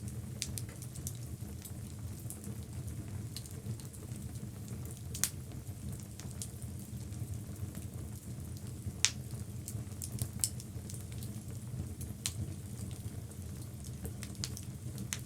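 Wood fire burning in a fireplace: a steady low rumble of flames with scattered sharp crackles and pops, two louder pops about five and nine seconds in.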